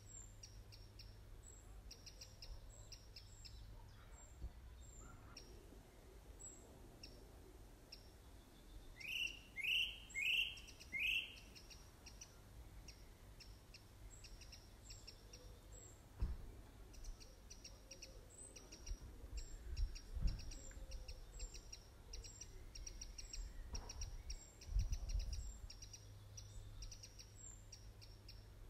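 Birds chirping: short high chirps repeat steadily throughout, with four loud, downward-sliding calls in quick succession about nine to eleven seconds in. A few low thumps come later.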